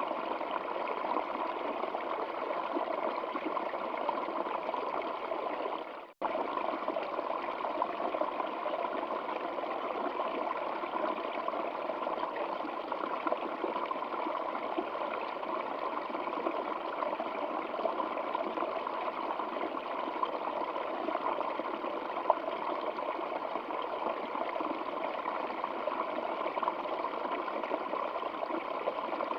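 Flowing stream water: a steady, even rush of water that briefly fades out and cuts straight back in about six seconds in.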